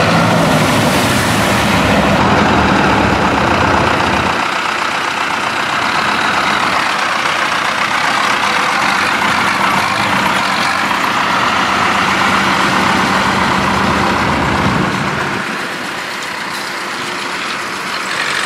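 Tractor engine running steadily. Its deep low end drops away about four seconds in, and a broad engine noise carries on after that.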